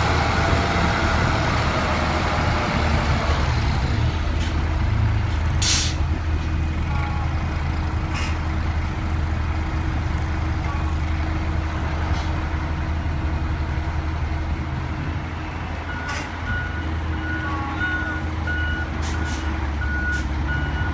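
Heavy diesel construction machinery running steadily, with a short air hiss about six seconds in. A reversing alarm starts beeping about sixteen seconds in, in a steady run of evenly spaced beeps.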